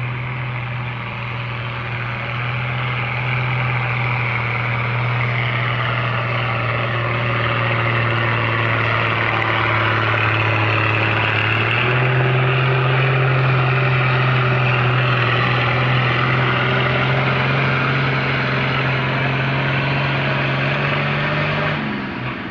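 Perkins 6354 six-cylinder diesel in a Zetor Crystal 8011 pulling tractor, running hard at steady high revs. The engine note steps up in pitch about halfway through and drops away just before the end.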